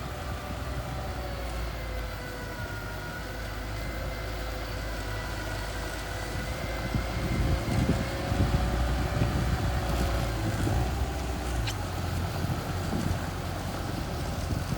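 Mini bulldozer's engine running under work, a steady low rumble with a slowly wavering drone, getting louder about eight seconds in.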